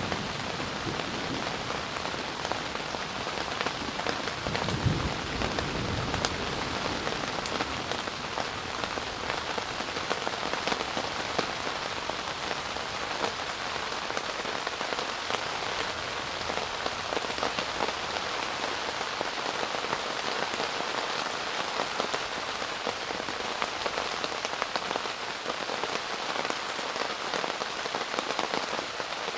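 Heavy rain falling steadily on a tent, with a short low rumble about five seconds in.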